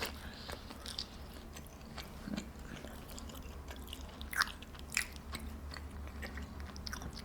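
A person chewing food close to the microphone: soft mouth and chewing sounds with scattered small crunchy clicks, a couple of louder crackles past the middle.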